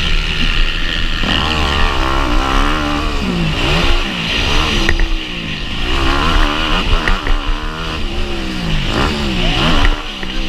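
Motocross bike engine racing, revving up and dropping back over and over as the rider accelerates and backs off, with a few short clicks and clatters among it.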